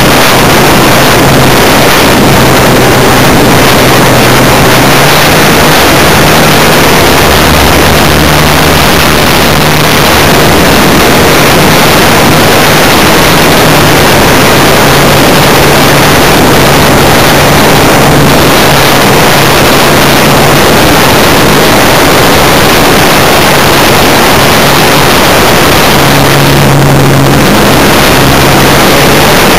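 Funtana S90 model aeroplane's engine running in flight under a loud, constant rush of wind noise that nearly buries it. The engine's low tone steps up and down a few times as the throttle changes, most clearly around seven seconds in and near the end.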